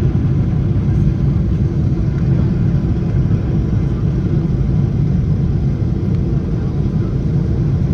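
Boeing 777-300's GE90 turbofan jet engines running with a steady, loud, deep rumble.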